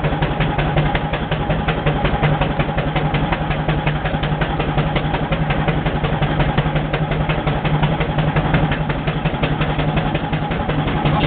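Wallis steam traction engine working uphill under load with a trailer behind, its exhaust beating in a fast, even rhythm of about four to five beats a second over a steady low hum.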